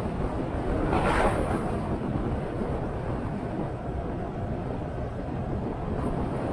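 Motorcycle running at riding speed with wind rushing over the microphone, a steady noisy rush with a brief louder swell about a second in.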